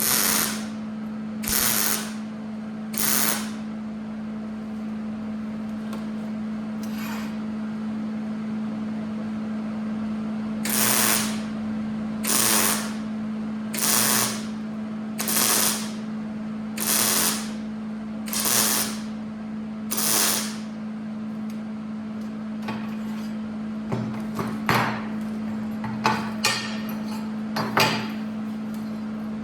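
Welder laying a series of short tack welds, each a hissing crackle of about half a second, roughly one every second and a half, over a steady electrical hum. Near the end come several sharp metal knocks.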